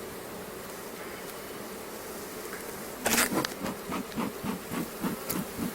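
Honeybee colony buzzing steadily in an open hive. About three seconds in, a sharp knock, then a quick run of rhythmic thuds, about three a second.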